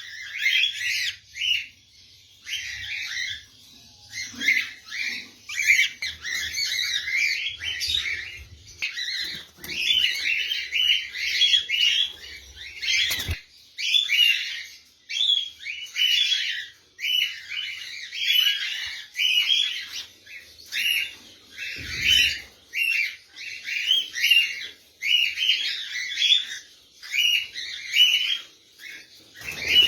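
A flock of caged pet birds chirping nonstop, many short high calls overlapping. A single sharp knock comes about 13 seconds in.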